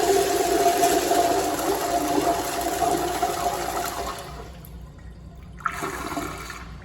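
Toilet flushing: a loud rush of water with a steady whistling tone that fades about four seconds in. A sharp click follows near the end with a brief further gush.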